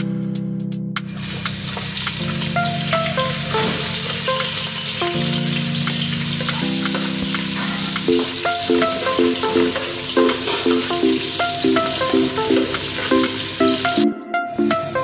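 Sliced red onions sizzling in hot oil in a metal pan and being stirred with a spatula, with small scraping clicks. The sizzle starts about a second in and cuts off abruptly just before the end. Background music plays throughout.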